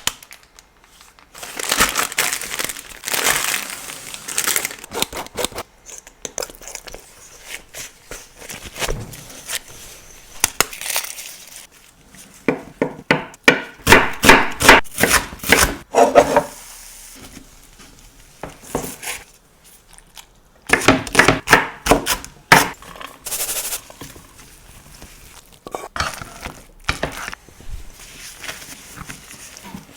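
Kitchen food-preparation sounds: ingredients and packaging rustled and crinkled, and bowls and utensils clicking and clinking, in bouts with short quiet gaps. Two longer runs of rapid clicking strokes come in the middle and about two-thirds of the way in.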